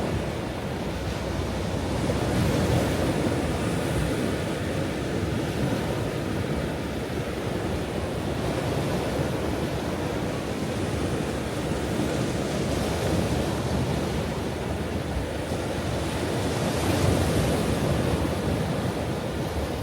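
Ocean waves breaking and washing on a shore in a continuous rush, swelling a little twice as larger waves come in.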